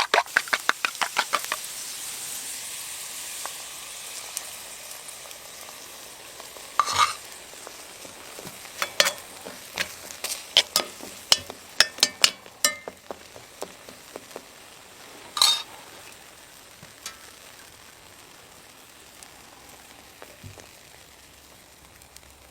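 Beaten eggs frying and sizzling in a pan while a spork stirs them: a quick run of scraping strokes in the first second or so, then a steady sizzle broken by scattered scrapes and taps against the pan, the strongest about fifteen seconds in.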